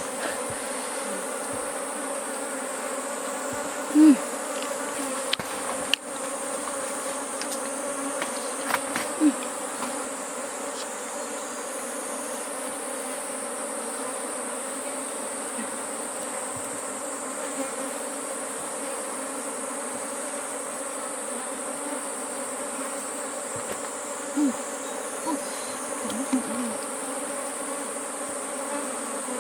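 Swarm of bees buzzing steadily around an opened wild hive. Now and then a single bee passes close with a louder, briefly rising and falling buzz, several times in all.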